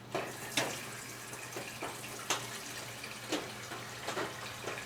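Non-ethanol petrol being poured into the fuel tank of a wood chipper's small engine: a steady pouring trickle broken by a few short sharp sounds along the way.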